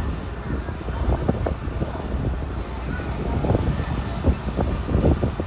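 SH-60K helicopter's twin turboshaft engines and rotor running: a steady low rumble with a high whine over it.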